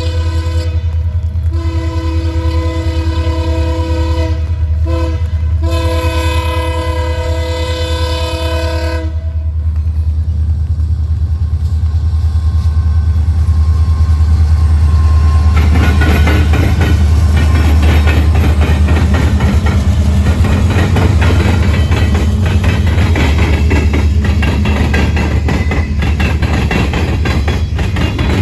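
Union Pacific SD70M diesel locomotive sounding its multi-chime horn in three blows, the last held about four seconds, as it approaches and passes with its EMD two-stroke diesel engine rumbling heavily. The horn stops about nine seconds in, and from about halfway the clatter of freight car wheels over the rail joints takes over.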